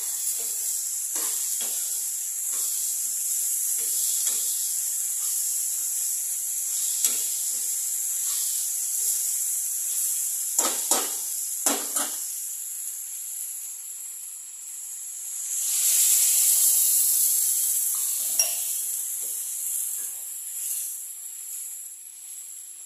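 Sprouted moth beans and vegetables sizzling in oil in a wok, with a metal spoon scraping and knocking against the pan as they are stirred. About two-thirds of the way through, the sizzle swells louder as water goes into the hot pan.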